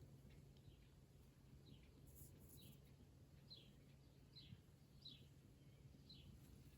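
Faint bird calls in a garden: a short falling chirp repeated roughly once a second, over a low steady background hum.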